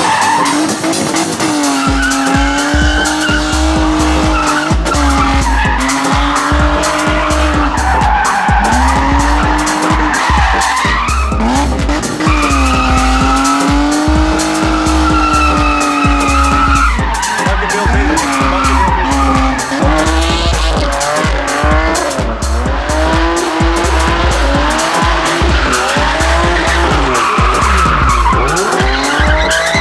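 Drift cars' engines revving up and down and tyres screeching through slides, mixed with music that has a heavy, steady bass beat.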